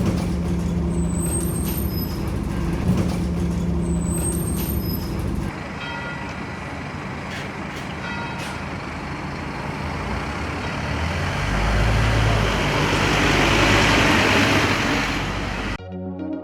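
Scania OmniCity diesel bus running with a steady engine drone. About five seconds in the sound changes abruptly, and later a broad rush of noise with a low rumble swells and then eases off.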